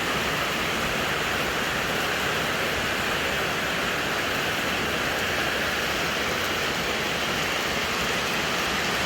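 Steady, even rush of water, with no change in level throughout.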